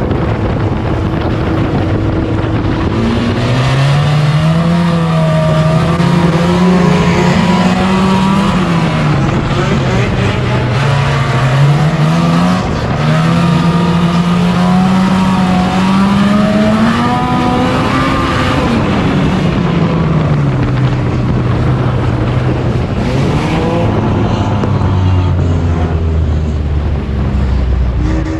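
Front-wheel-drive sport compact race car engine on hot laps, its pitch climbing in long pulls and dropping back, twice over, then running lower near the end.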